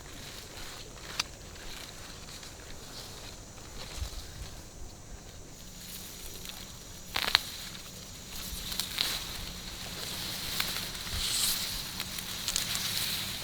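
Rustling and handling noises with a few sharp clicks, the loudest about seven seconds in, growing busier with quick high ticks toward the end.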